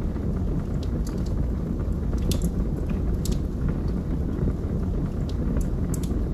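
Wood fire burning in a fireplace: a steady low rumble of the flames with sharp crackles and pops from the burning logs at irregular moments.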